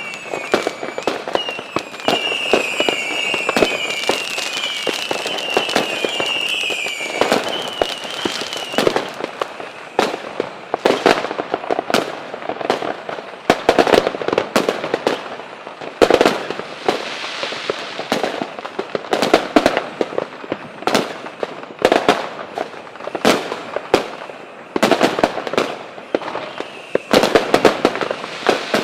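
Fireworks going off: a rapid run of bangs and crackling bursts, with a string of short whistles from whistling fireworks over the first nine seconds or so.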